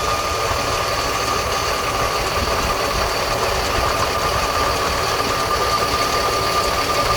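Jet fuel truck's engine running with the PTO engaged to drive the fuel pumps, a steady engine drone under a constant high whine.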